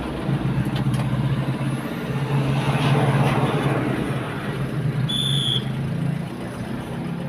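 Truck engine running steadily on the road, with a swell of rushing noise about two to four seconds in and a short high beep about five seconds in.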